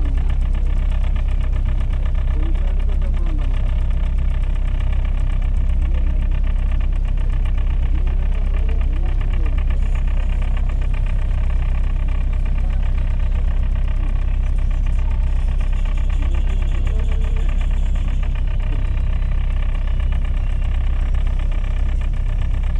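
Boat engine running steadily under load, a deep continuous rumble with an even firing rhythm.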